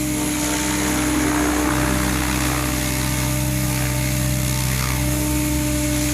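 Goblin 700 electric radio-controlled helicopter in flight: a steady, even drone of the spinning rotor blades and electric motor, with a continuous hiss.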